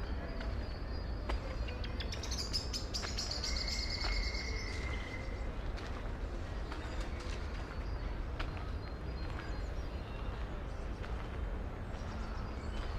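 Small birds chirping: about two seconds in comes a quick burst of high twittering with one held whistled note, and scattered chirps follow. Under it runs a steady low city rumble.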